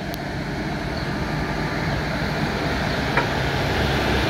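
Electric locomotive hauling a passenger express past close by: a steady rumble of wheels on rails, growing louder as it draws level. A single sharp clack comes about three seconds in.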